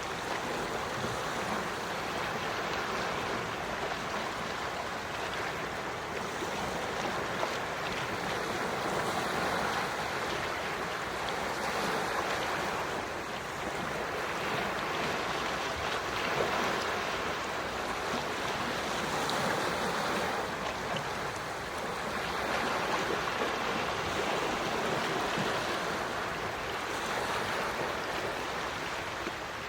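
Gentle sea waves washing on the shore: a steady hiss of surf that swells and eases every few seconds.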